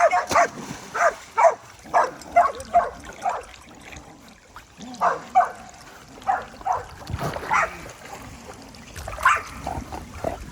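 A dog barking in short, yipping calls: a quick run of barks over the first few seconds, then a pause and a few scattered barks.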